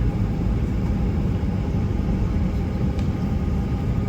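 Steady low rumble of a vehicle in motion, even throughout.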